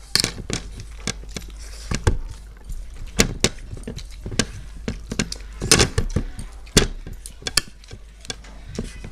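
Mukbang-style eating sounds: irregular clicks, clinks and knocks of eating rice and fish curry by hand, with chewing and mouth noises.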